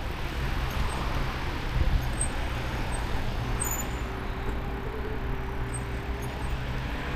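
Road traffic going by, heard over a steady low wind rumble on the microphone of a moving e-bike; a faint steady engine-like tone sounds for a couple of seconds past the middle.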